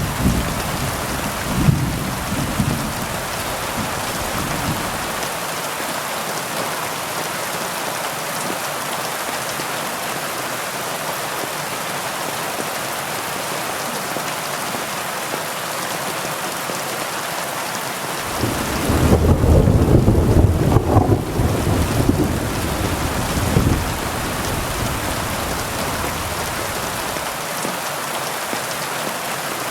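Heavy rain falling steadily, a dense even hiss. A deep rumble of thunder fades out in the first few seconds, and a louder roll of thunder comes about two-thirds of the way through and dies away over several seconds.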